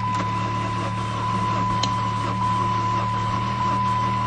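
Old Saturn's double-overhead-cam engine turning over in the cold, a steady low drone with a thin steady whine above it. The compression sounds wrong to the person starting it.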